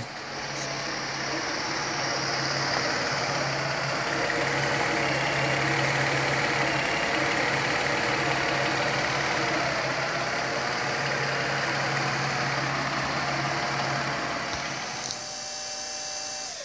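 Freshly reinstalled Toyota Sienna V6 engine running steadily at idle. Near the end the low hum fades and a steady higher whine is left.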